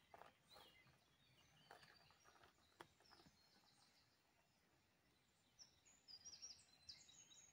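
Faint birdsong: short high chirps and a quick trill of repeated notes in the second half, with a few light clicks in the first few seconds.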